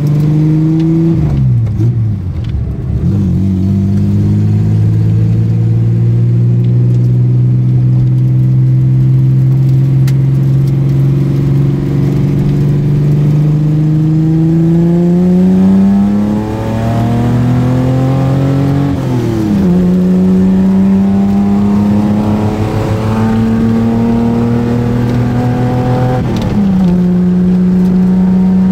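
Datsun 240Z's inline-six engine pulling hard through its old exhaust system, heard from inside the car: the revs climb steadily and drop sharply about four times as the gears change.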